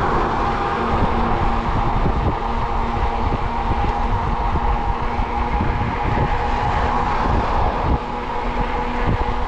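Fat-tire e-bike riding along: a steady motor whine over tyre rumble and wind buffeting the microphone.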